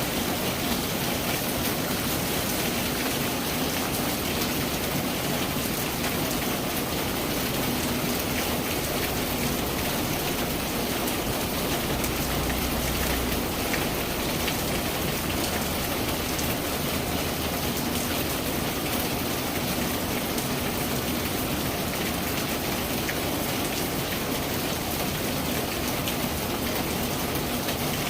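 Steady rain falling on surfaces: an even, unbroken hiss of many drops, with the faint taps of single drops here and there.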